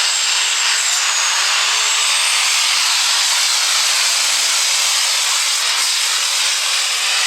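Super stock diesel 4x4 pulling truck under full power down the pull track: a loud, steady engine roar with a high whistle held over it. The engine note wavers near the end as the truck bounces.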